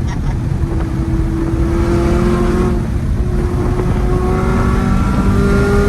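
Modified 800-horsepower Camaro ZL1 1LE's supercharged V8 pulling hard under acceleration, its pitch climbing through a gear, then dropping at a quick upshift about three seconds in and again near the end before climbing once more, over a heavy low rumble.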